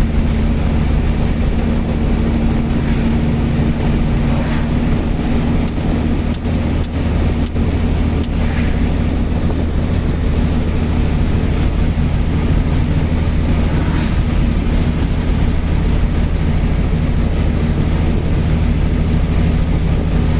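Mazda B-series pickup on Holley Sniper fuel injection cruising at a steady speed, heard from inside the cab: a steady low engine drone with road and wind noise coming in through the open windows. A few light clicks come about six to eight seconds in.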